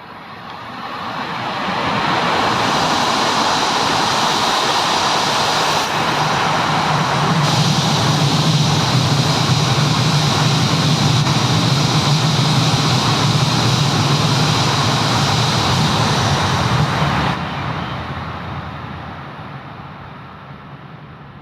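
A Tohoku Shinkansen bullet train passing through a station at high speed without stopping. A rush of noise builds over about two seconds and stays loud for some fifteen seconds, with a low hum beneath it. It then fades away over the last few seconds.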